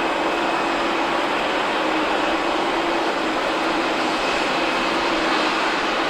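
Jet engines of a Boeing 747-400 freighter running steadily: an even rushing noise with a low hum and a faint high whine held throughout.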